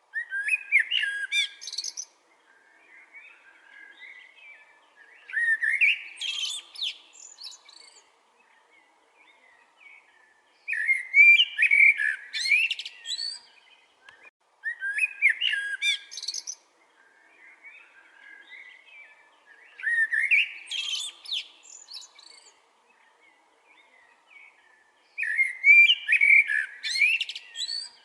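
Chopi blackbird (pássaro-preto) singing: six loud phrases of whistled, warbling notes, each about two seconds long and coming roughly every five seconds, with softer chattering notes between them.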